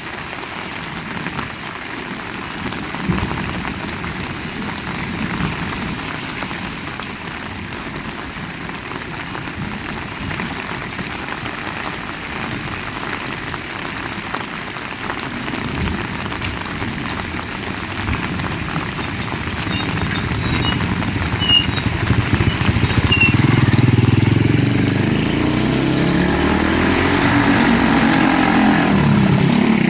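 Heavy rain falling steadily. From about two-thirds of the way in, a vehicle engine draws near and grows louder, its pitch shifting as it comes close.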